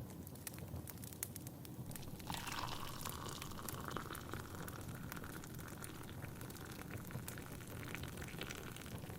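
Tea being poured into a cup, starting about two seconds in and rising slightly in pitch until it tails off near the end, over a steadily crackling wood fire.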